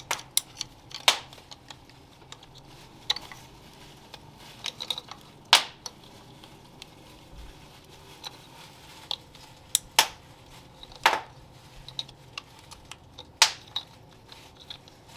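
Irregular sharp metallic clinks and knocks of hand tools and parts being handled during engine reassembly, about a dozen strikes, with the loudest a second in, near the middle, and about two-thirds and seven-eighths of the way through.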